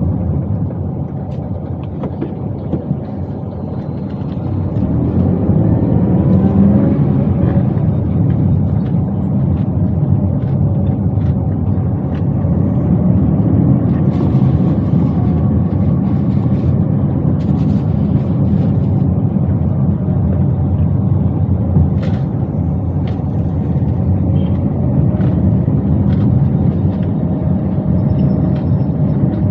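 Toyota Wigo's engine and road noise heard from inside the cabin while driving. The engine note rises and grows louder about five seconds in as the car picks up speed.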